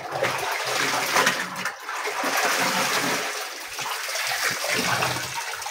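Water rushing and splashing in the tub of a semi-automatic twin-tub washing machine, a steady rush that swells and dips with a low rumbling underneath.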